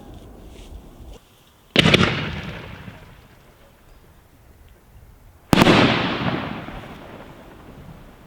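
Two loud firework bangs about four seconds apart, each a sharp report followed by a rolling echo that dies away over a second or so; the first has a quick double crack.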